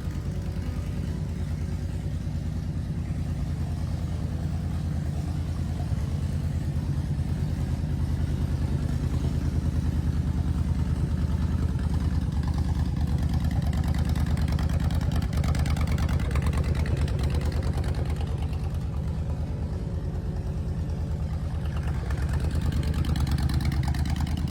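Honda Sabre's V-twin motorcycle engine idling steadily, its level swelling slightly a couple of times.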